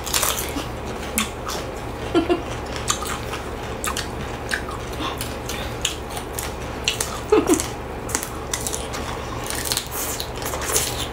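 Crunching and chewing of raw cucumber and fresh leafy greens: irregular sharp crunches and wet mouth sounds, over a steady low hum.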